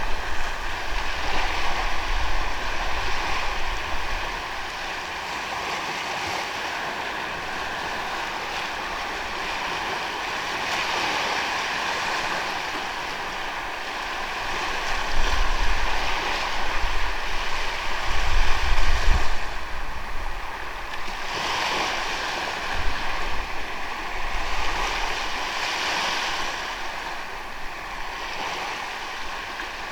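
Sea waves breaking and washing onto a sandy beach, a steady surf that swells louder near the start and again around the middle.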